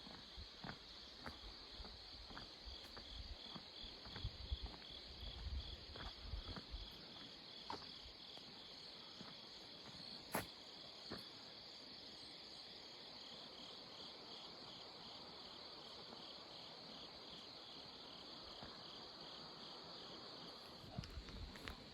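Insects, crickets by the sound, chirping steadily in a high band that pulses about four times a second. Scattered light clicks and low knocks come through in the first half, with one sharper click about ten seconds in.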